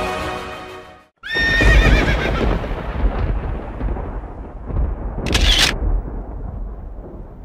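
Horse whinny sound effect: a loud wavering neigh that starts suddenly about a second in and trails off, over a deep rumble that runs on beneath it, with a short hiss near the five-second mark. Music fades out just before it.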